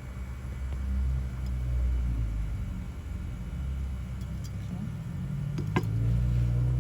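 A low, steady rumble that swells and eases, with one sharp click a little before the end.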